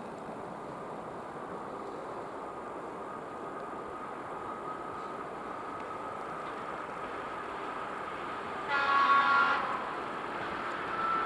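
ChS4 electric locomotive hauling a passenger train approaching, a steady rumble with a faint whine growing slowly louder, then one horn blast of about a second, roughly nine seconds in.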